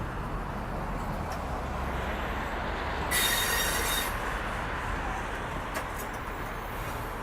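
Train rolling past with steady wheel-on-rail rumble, and a loud, high-pitched wheel squeal lasting about a second midway.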